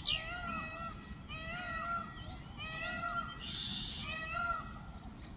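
Indian peafowl calling over and over: short, arched, meow-like cries about one a second. Small birds chirp now and then.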